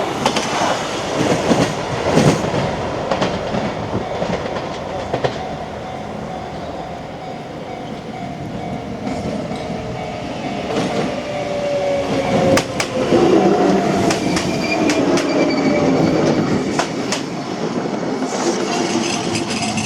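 Kintetsu Minami Osaka Line electric train passing over a level crossing, its wheels clattering over the rail joints, with a whine that slowly falls in pitch partway through.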